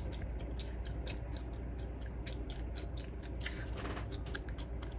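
A person chewing gum: an irregular run of short smacking clicks, several a second.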